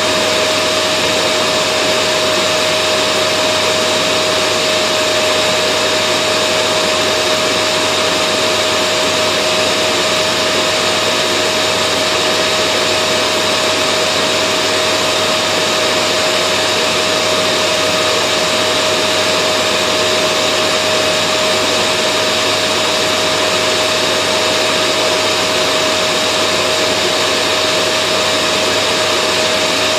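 Vacuum cleaner motor running steadily, a constant airy rush with a steady whine over it and no change in pitch or level.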